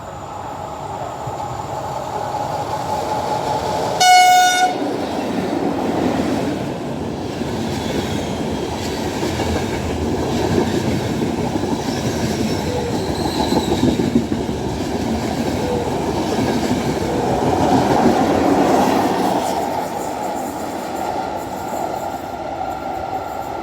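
A train passing through a station, sounding one short horn blast about four seconds in, then the long steady rumble of its wheels on the rails, swelling in the middle and easing near the end.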